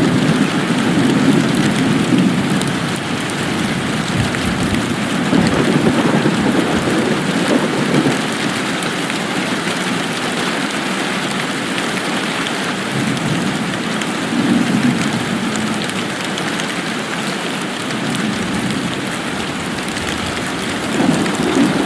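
Steady rain falling in a continuous hiss, with low rumbling swells that rise and fade every few seconds.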